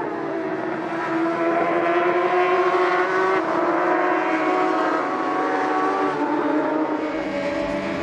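Racing motorcycle engine at high revs, its note drifting slowly down and up, getting louder about a second in. A low pulsing beat comes in near the end.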